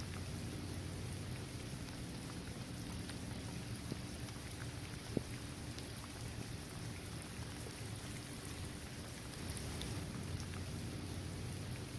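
Steady rain falling on a basketball court, trees and grass, with scattered individual drop ticks and one sharper drip about five seconds in.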